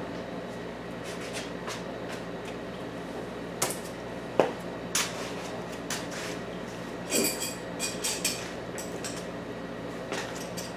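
Scattered metal clinks and knocks over a steady hum, with one sharp knock about four seconds in and a short run of ringing clinks a few seconds later.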